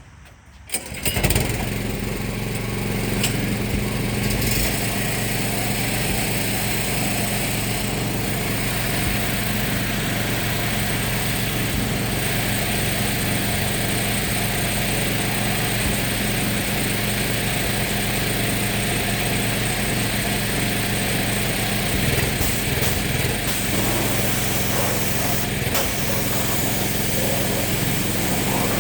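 A machine motor starts about a second in and then runs steadily and loudly with a constant hum, the noisy cleaning equipment switched on for the engine-bay wash.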